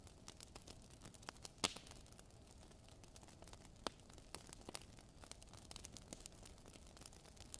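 Wood fire crackling in a fireplace: faint, irregular sharp pops and ticks, the loudest just over a second and a half in, with another a little under four seconds in.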